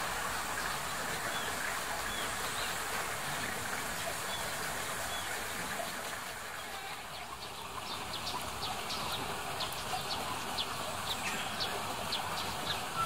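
Short high bird chirps: a few separate calls in the first half, then a quicker run of ticking chirps from about halfway, over a steady hiss.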